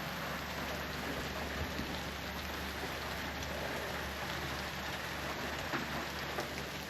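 Steady rain falling in a heavier shower, an even hiss with scattered drop ticks.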